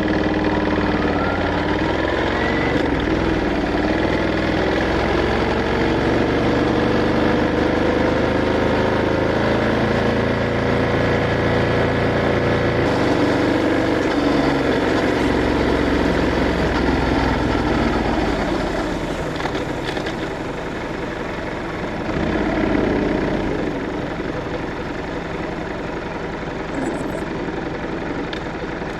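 Ducati Scrambler 1100's air-cooled L-twin engine running under way, its pitch rising and falling with the throttle. About two-thirds of the way through it drops quieter and lower, as the bike slows.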